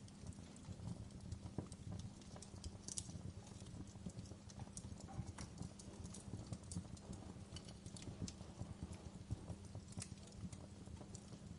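Wood fire crackling in a fireplace: irregular small pops and snaps over a steady low rumble of the flames.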